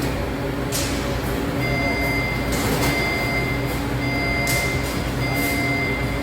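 Machinery running with a steady hum and a high whine that cuts in and out, broken by short bursts of hiss every second or two.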